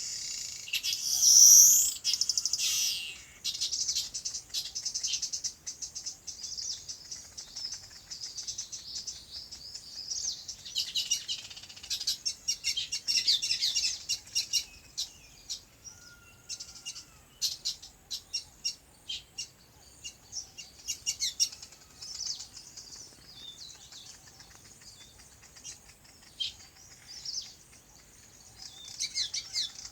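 Several small birds chirping and tweeting, a dense run of short high-pitched calls, loudest about two seconds in.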